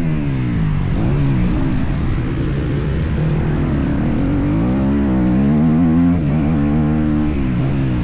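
Motocross bike engine revving up and down as the throttle is worked around the track. The pitch drops just after the start and climbs again about five seconds in.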